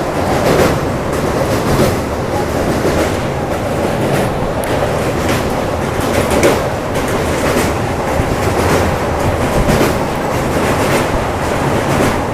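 Electric suburban local train running, heard from inside a passenger coach: a steady, loud rumble and rattle with faint irregular knocks from the wheels and carriage.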